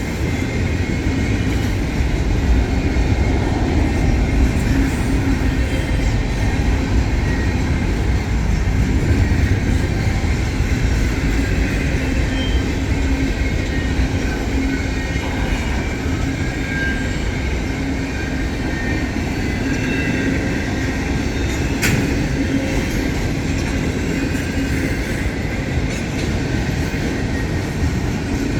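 Freight cars of an intermodal train rolling past steadily, a continuous rumble of steel wheels on rail with faint wheel squeal and one sharp click about three-quarters of the way through.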